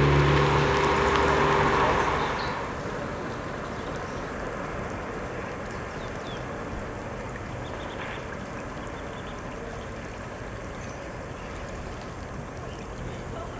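A motor vehicle's engine, loud at first, fades away over the first two or three seconds. It leaves a steady rushing noise of flowing floodwater, with a few faint bird calls.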